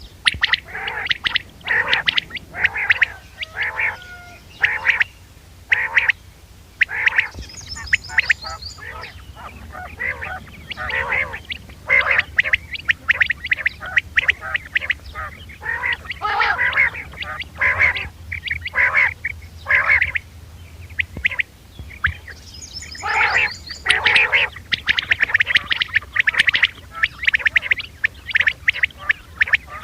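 Quail calling over and over in quick, uneven runs of short notes, a recorded lure call used to draw quail for hunting. Twice a brief higher whistled phrase cuts in, and a low steady hum from the recording lies under it all.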